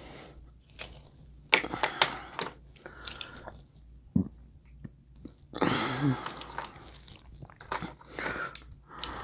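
A person eating seafood boil close to the microphone: chewing and biting, with a few sharp cracks and crunches and wet mouth sounds.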